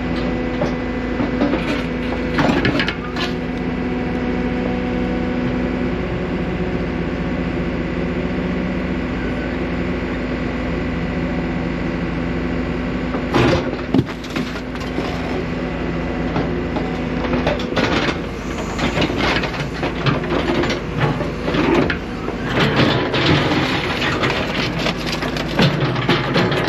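Excavator's diesel engine running steadily while its bucket digs into rocky ground, with sharp knocks and crunching and scraping of rock and gravel that grow busier over the last third.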